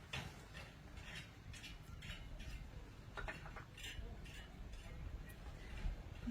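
Faint, irregular clicks and light taps of eating utensils against a bowl, a few each second.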